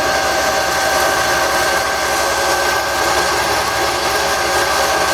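Wood lathe running steadily, its motor giving a constant whine over a low hum, with sandpaper held against the spinning wooden handle adding an even hiss.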